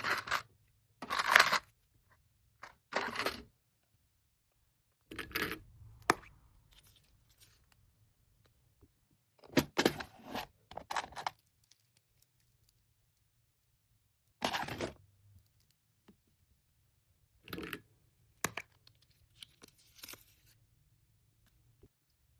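Packaging and small items being handled: a run of short rustling and crinkling bursts with a few light clinks, about a dozen in all, with quiet gaps between them.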